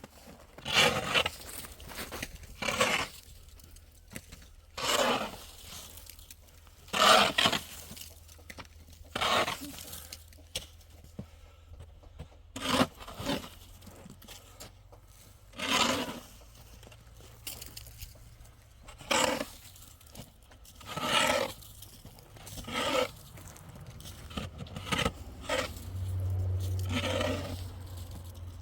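Metal shovel scraping and digging in slow, uneven strokes, about one every two seconds. Near the end a low hum rises for a couple of seconds.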